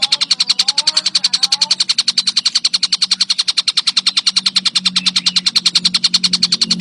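Tengkek buto kingfisher giving its rattling call: a fast, even, unbroken series of dry clicks, about ten a second. Faint whistles from another bird in the first couple of seconds, and a low hum underneath.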